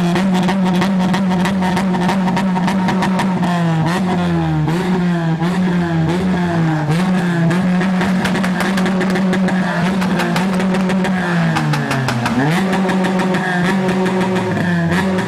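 Honda K20 inline-four engine running at sustained high revs, its pitch held nearly steady with small dips and rises. About twelve seconds in the revs drop briefly and climb straight back.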